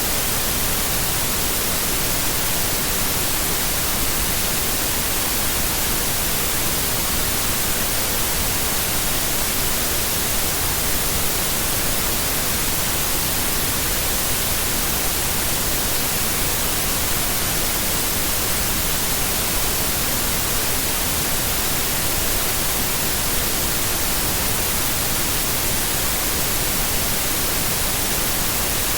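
Steady white noise: an even, unbroken hiss across the whole range, brightest in the treble, staying at one level throughout.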